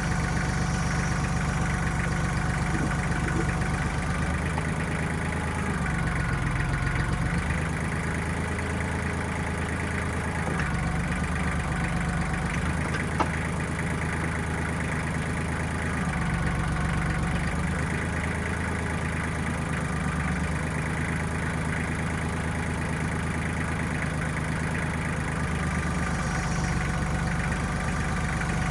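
1995 Kubota backhoe's diesel engine running steadily, its low note shifting every few seconds, with a single sharp click about thirteen seconds in.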